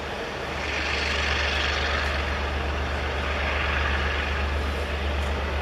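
A train's passenger coaches rolling past, a steady rumble of wheels on rail over a low drone, swelling about half a second in.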